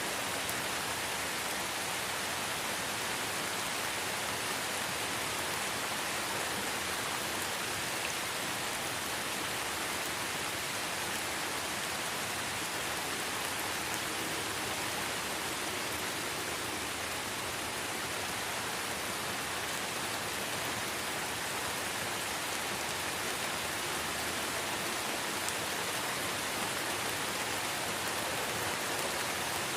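Light, steady rain falling in a forest, an even hiss of raindrops with occasional faint drip ticks.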